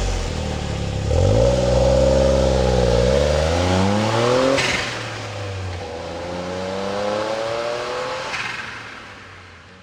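Suzuki Cappuccino's three-cylinder turbo engine heard through a Monster Sport TYPE Sp-X stainless muffler, the exhaust note rising and falling twice, the second rise smaller, then fading out near the end.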